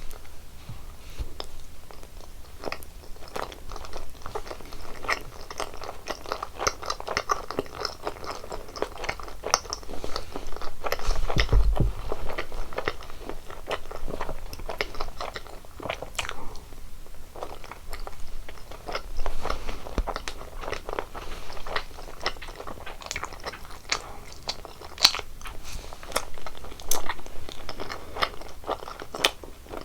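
Close-miked mouth sounds of biting and chewing sweets: sharp crunches and crackles coming thick and fast, with a dull low thump about twelve seconds in.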